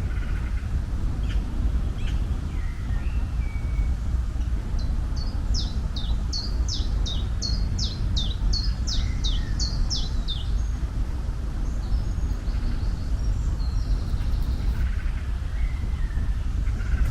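A songbird sings a rapid series of repeated, falling high notes, about three a second, for roughly five seconds midway. Fainter bird calls come before and after, over a steady low outdoor rumble.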